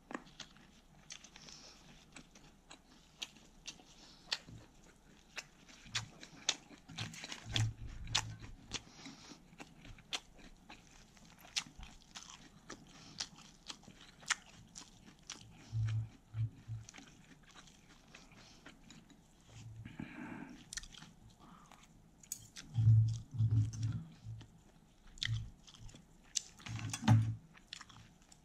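Close-miked chewing of a lettuce wrap of grilled thin-sliced pork belly: many sharp crunchy clicks of lettuce and meat between the teeth, with a few low thumps, the loudest ones late on.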